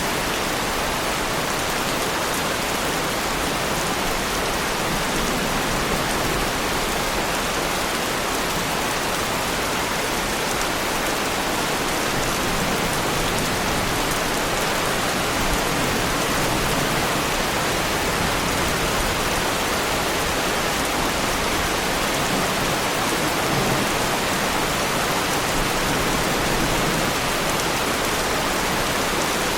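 Heavy rain falling steadily on a car, an even, unbroken patter.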